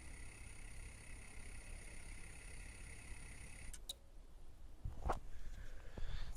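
Lift machine motor running with a steady whine and hum, then cutting off abruptly a little past halfway with a couple of clicks, followed by a few knocks.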